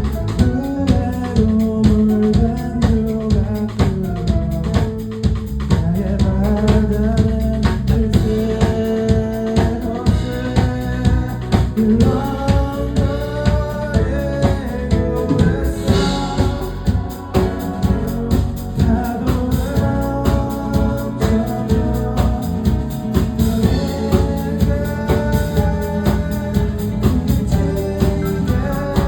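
A band playing a song: a drum kit keeps a steady beat under pitched instruments and a singing voice.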